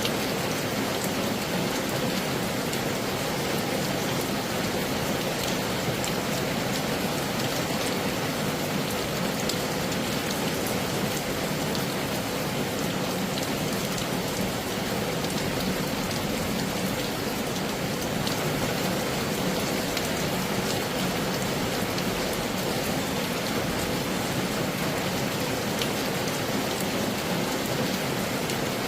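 Heavy rain falling steadily: an even, dense hiss with scattered individual drop ticks.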